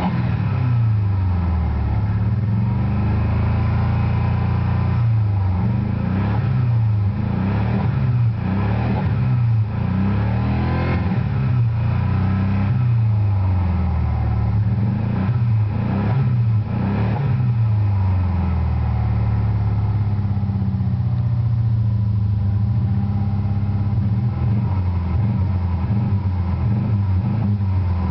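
The turbocharged 2.5-litre four-cylinder engine of a 1990 Chrysler Daytona Turbo ES being revved with the car standing still, heard from inside the cabin. The engine pitch rises and falls again and again for the first part, then holds steadier over the last third.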